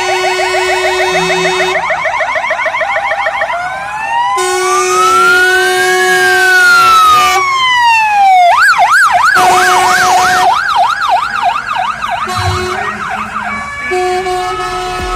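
Electronic fire-engine sirens changing pattern: fast repeated sweeps for the first few seconds, a slow rising and falling wail around the middle, then a quicker yelp, with a steady low tone sounding on and off underneath.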